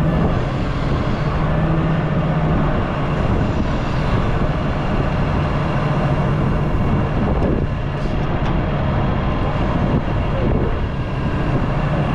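Excavator's diesel engine running steadily at working speed.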